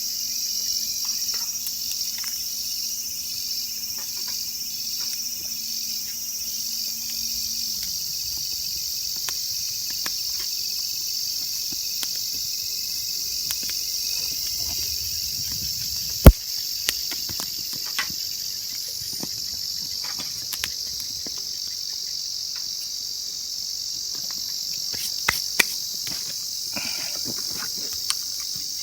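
Insects chirring steadily in a high, even drone, with a single sharp click about sixteen seconds in and a few small ticks near the end.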